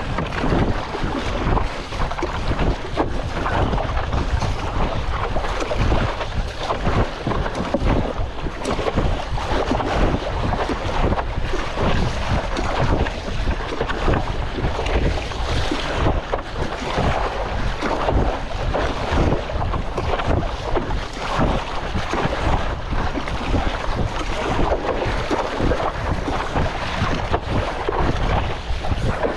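Strong wind buffeting the microphone over choppy sea water, a loud, gusting rush with a heavy low rumble.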